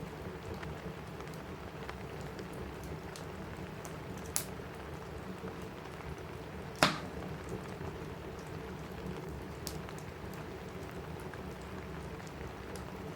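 Steady rain on a cabin roof, with a crackling wood fire: a few sharp pops from the fire stand out, the loudest about seven seconds in.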